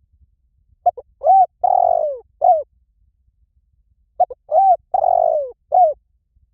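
Spotted dove calling: two cooing phrases about three seconds apart, each of a few short coos and one longer coo that falls in pitch.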